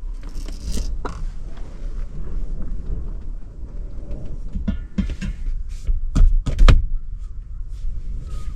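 Strong wind buffeting a parked van, heard from inside as a low, steady rumble, with several knocks and clacks of things being handled; the loudest two come close together a little after six seconds in.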